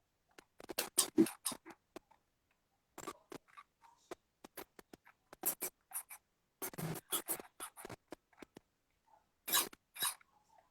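Irregular short rustles, taps and scrapes close to the microphone, in clusters: hands and clothing moving during sign-language conversation. The loudest come about a second in, around seven seconds and near the end.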